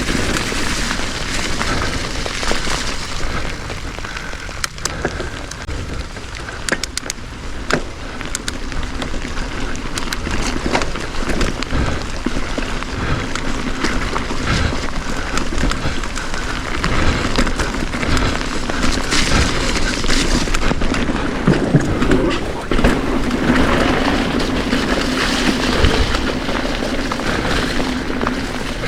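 Wind buffeting the microphone and rolling trail noise while riding an electric unicycle over wet dirt trail, with scattered sharp knocks from bumps and a faint steady hum underneath.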